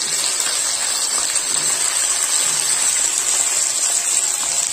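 Cut okra pieces sizzling steadily as they fry in hot oil in a kadhai.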